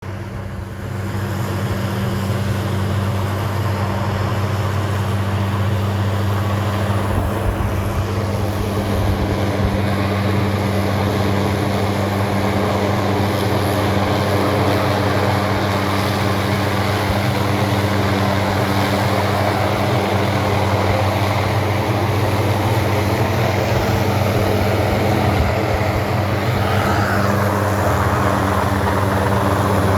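Steady engine drone: a constant low hum under a rushing noise, rising to full level about a second in.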